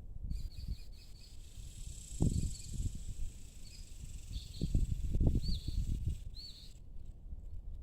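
Small birds chirping in short high notes, some in quick arching calls, over a faint steady insect hiss. Wind gusts buffet the microphone with low rumbles, strongest about two seconds in and around five seconds in.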